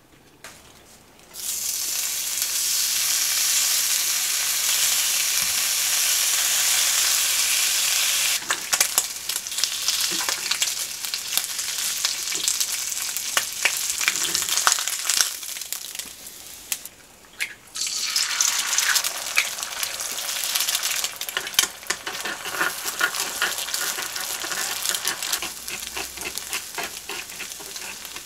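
Food frying in a hot nonstick pan: bacon strips sizzle and crackle, with clicks of metal chopsticks turning them. After a brief lull about two-thirds through, a fresh sizzle starts, and it crackles on as eggs are scrambled in the pan with chopsticks.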